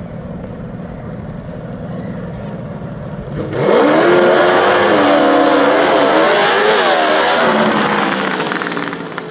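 Racing lawn mower engine at full throttle. About three and a half seconds in it comes up loud and close, its pitch climbing and then wavering up and down for about four seconds before fading away.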